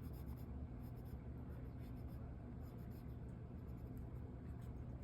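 Drawing strokes scratching lightly on paper, over a steady low hum.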